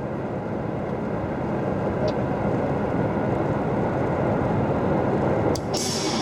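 Steady vehicle engine and road rumble from a moving vehicle, swelling up at the start and cut off sharply near the end.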